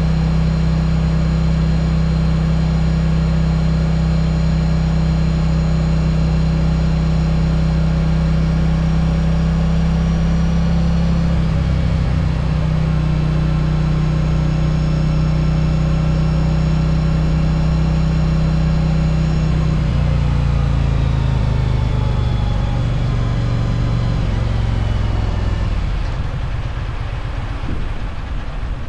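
Yamaha Virago 1100's air-cooled V-twin running steadily at road speed, with a brief break in its note about twelve seconds in. From about twenty seconds in its pitch falls steadily as the bike slows, and it grows quieter near the end.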